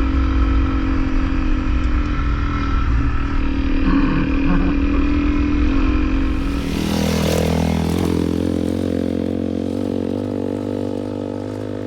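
Honda CRF250L's single-cylinder engine running steadily under way. About seven seconds in comes a short rushing noise, after which the engine note lightens and the sound slowly gets quieter as the bike eases off.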